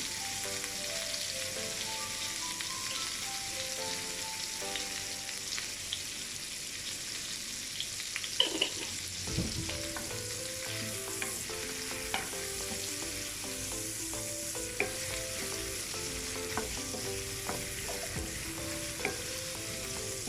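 Sliced onions and peppers sizzling steadily in a frying pan as they are stirred, with the spoon clicking and knocking against the pan now and then, most sharply about halfway through.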